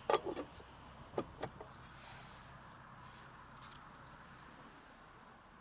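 A few short clinks and knocks: a quick cluster right at the start, then two or three more about a second later, over a steady faint hiss.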